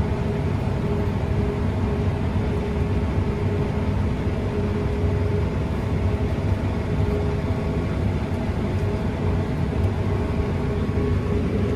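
Combine harvester running steadily, a constant low drone with a steady hum over it.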